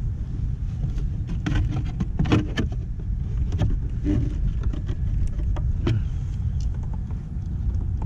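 Kayak pedal drive clicking and knocking irregularly as it is worked, over a steady low wind rumble on the microphone. The drive is slipping and not catching every time, which the owner puts down to bearings that need grease.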